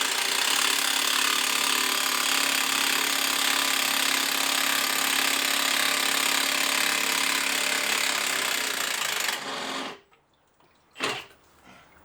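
Impact wrench hammering on the back motor mount bolt, loosening it. It runs without a break and stops about nine and a half seconds in, followed by a few short knocks.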